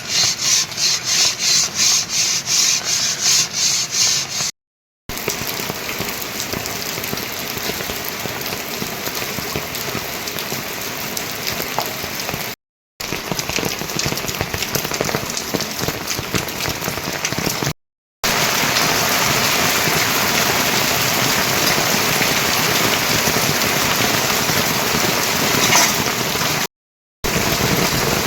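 For the first four seconds or so, a hand tool works wood in fast rhythmic strokes, about three a second, like sawing or rasping. Then, after brief silent cuts, steady rain falls.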